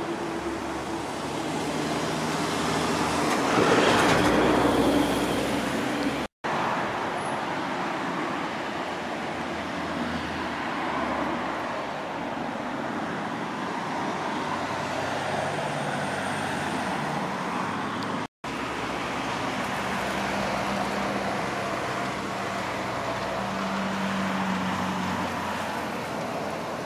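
Narrow-gauge train running, a steady rumble with a few held tones that swells to its loudest about four seconds in. The sound drops out for an instant twice.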